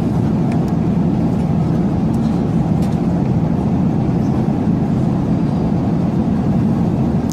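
A steady, loud low rumble with no break or change, like a vehicle running.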